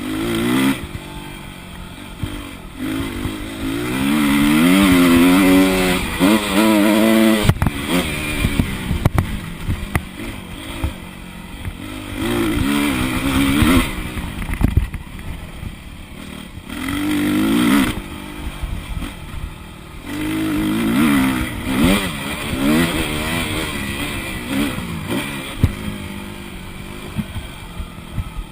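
Motocross dirt bike engine revving hard and backing off again and again as the bike is ridden round the track, its pitch climbing and dropping with each burst of throttle. There are a few sharp knocks along the way, clearest about seven and nine seconds in.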